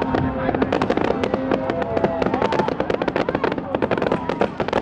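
Fireworks display: a rapid, dense volley of aerial shell bursts and crackles.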